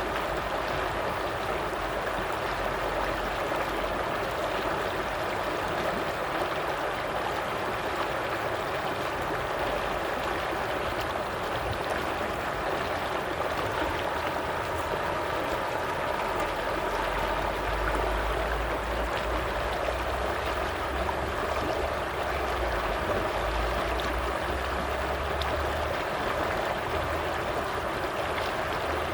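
Stream water flowing and gurgling steadily over rocks.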